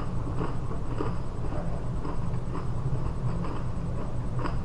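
Chewing and crunching a butter cracker sandwich: irregular short crunches, a few a second, over a steady low hum.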